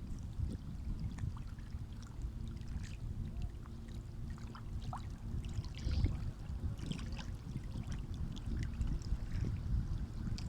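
Sea waves washing along the shore: a steady low rumble of moving water with scattered small splashes and crackles of spray. A faint steady hum sits underneath from about two seconds in.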